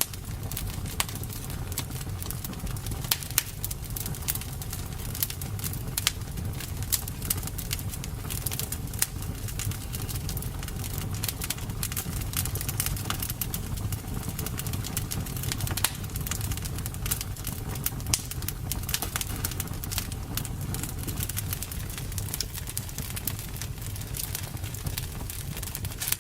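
Campfire burning, with frequent irregular crackles and pops over a steady low rumble.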